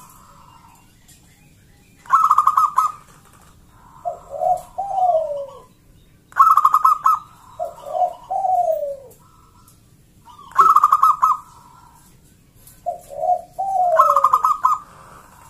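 Local-type zebra dove (perkutut) singing its cooing song: each phrase is a rapid rattling burst of coos followed by a couple of lower, falling notes. The phrase comes four times, about every four seconds.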